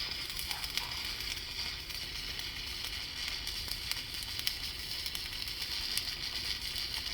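Welding: a steady sizzling crackle with frequent sharp pops, running without a break.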